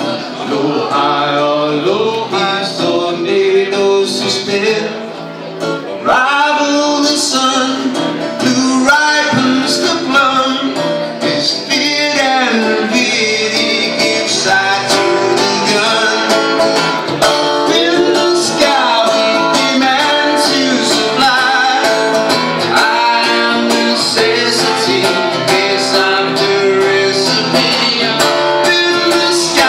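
Live country rock band music led by guitar.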